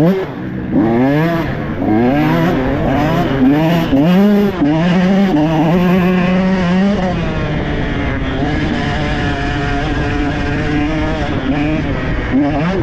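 Dirt bike engine revving up and down over and over, pitch rising and falling sharply, then settling to steadier, lower revs from about seven seconds in.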